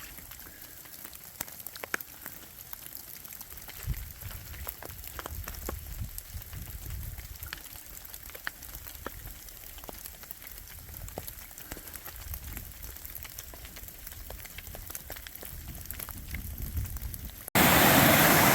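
Scattered water drops pattering and ticking over a quiet background, as on a wet trail in light rain. Near the end it cuts suddenly to the loud, steady rush of a fast-flowing mountain stream.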